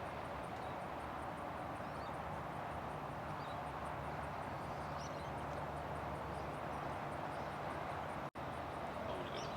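Steady jet engine noise from an airliner idling on the ground, with a low hum and faint bird chirps over it. The sound cuts out for an instant near the end.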